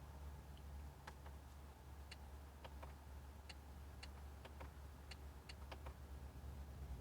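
Faint, irregular clicking of a car's infotainment controls being operated in the cabin, about one to two clicks a second, over a low steady hum.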